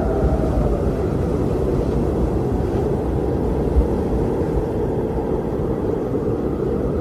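Strong wind blowing steadily, a low rushing noise with a brief low buffeting thump about four seconds in. A faint moaning tone fades out in the first second.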